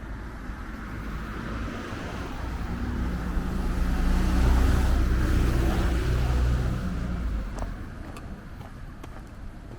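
A motor vehicle driving past on the street, its engine and tyre noise building to a peak about halfway through and then fading away.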